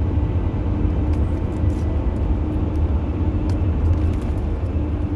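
Steady low road rumble inside a moving car's cabin, with a few faint crinkles of packaging.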